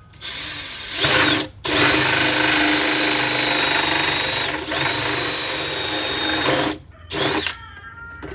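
Power drill running as it bores a feed hole through a plastic bucket: a short run, a brief stop about a second and a half in, a long run of about five seconds, then a short burst near the end.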